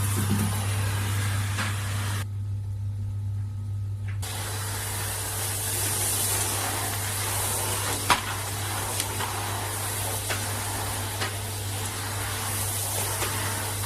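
Rowenta RO3950 bagged vacuum cleaner running: a steady low motor hum under a broad airflow hiss, with a few sharp clicks, the loudest about eight seconds in. The hiss cuts out for about two seconds near the start while the hum carries on.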